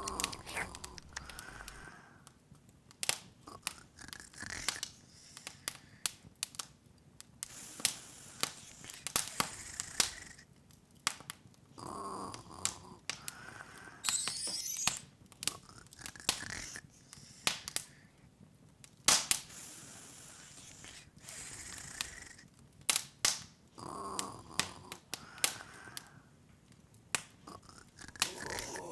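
Open wood fire crackling, with irregular sharp pops and snaps, some louder than the rest. A brief sparkling shimmer rises about halfway through.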